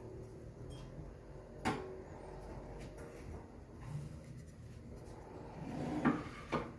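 Small clicks and handling noises from a watch and small parts being worked on by hand on a hard surface: a sharp click a little under two seconds in, and near the end a short rustle followed by another click.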